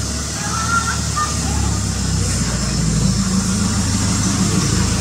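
A steady low engine hum, like a motor vehicle running close by, with a few faint short high tones in the first second and a half.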